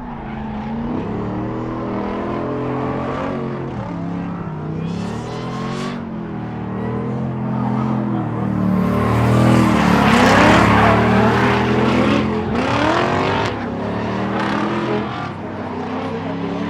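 Drift cars sliding through a corner: engines revving hard, pitch rising and falling as the throttle is worked, with tyres screeching. Loudest about ten seconds in as the cars pass closest.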